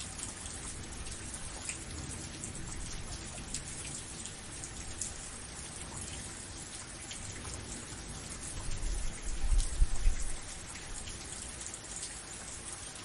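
Steady rain falling, a dense hiss dotted with individual drops pattering and ticking on a surface. A low rumble swells a little past halfway through, then dies back.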